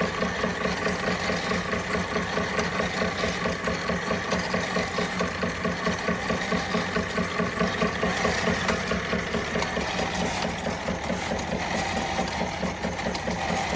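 Empire B42 twin-cylinder model steam engine running steadily under load while driving small fairground toys: an even, rapid chuffing beat with the clatter and whirr of the driven toys.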